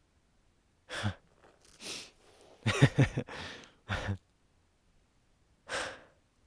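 A man breathing hard in a string of loud breaths and sighs. The loudest, around the middle, carries a voiced groan.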